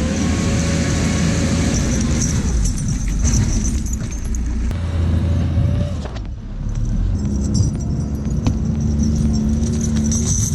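An engine running steadily under load with a low rumble and metallic rattling; the sound drops away briefly about six seconds in, then carries on.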